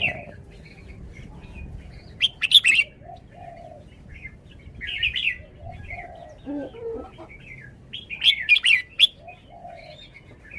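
Red-whiskered bulbul singing short, bright phrases in three loud bursts, about two, five and eight seconds in, with softer lower notes in between.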